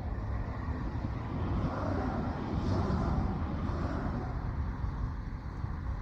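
Low steady rumble of a passing vehicle that grows louder about two seconds in and fades again by about four seconds.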